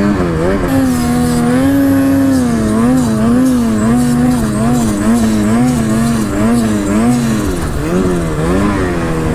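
Snowmobile engine running under throttle, its pitch rising and falling over and over, about twice a second, as the rider works the throttle in the snow.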